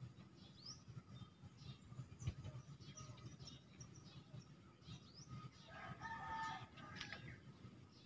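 Faint, scattered short chirps of small birds, with a longer call of several steady tones lasting about a second, about six seconds in. A light knock sounds about two seconds in.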